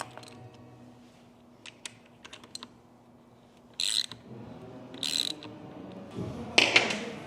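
Metal tools working on a transmission assembly: scattered light clicks, two short ratcheting bursts, then a louder clatter near the end.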